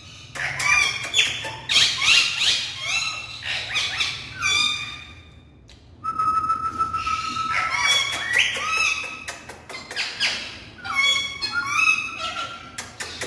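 Pet parrots whistling and calling in quick runs of short notes that slide up and down in pitch, with a brief lull about five seconds in.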